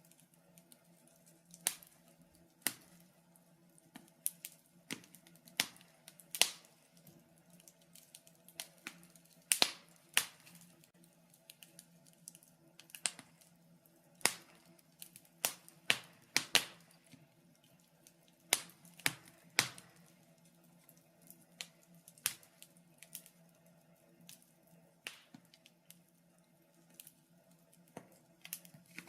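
Wood fire crackling in a fireplace: irregular sharp pops and snaps, about one every second or two, some much louder than others, over a faint steady low hum.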